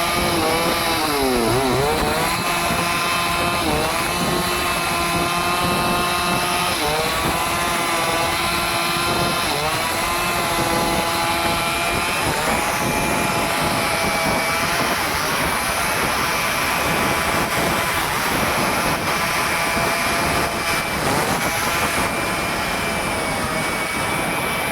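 Stihl chainsaw running at high revs. Its pitch drops and recovers several times in the first half as the chain bogs under load in the cut, then holds steadier.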